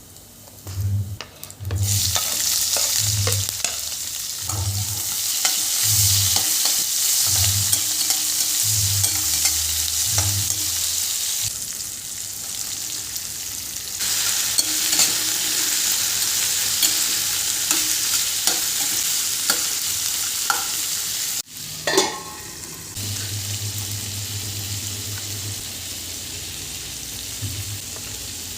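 Food sizzling and frying in hot oil in a pan while it is stirred. The sizzle starts suddenly about two seconds in, eases off briefly twice, with occasional clicks from the stirring.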